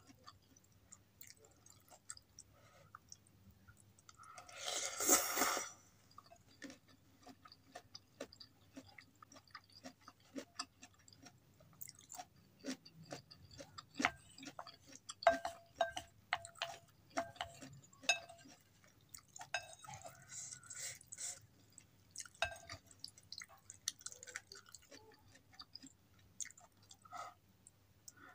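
Close-miked chewing of soft noodles and vegetables with small wet mouth clicks. A loud slurp comes about five seconds in. Wooden spoon and fork click and tap on a glass bowl, most often in the second half, some taps briefly ringing.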